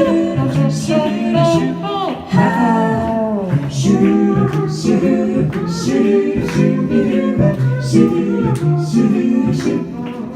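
A cappella vocal group singing wordless close harmony on scat syllables, several voices moving together over a low bass voice. A regular beat of sharp clicks runs under them.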